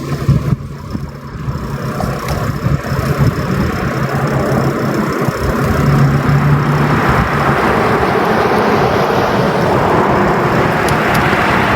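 Street traffic: a motor vehicle's engine running with a steady low hum, then road noise that swells about six seconds in and stays loud as traffic goes by.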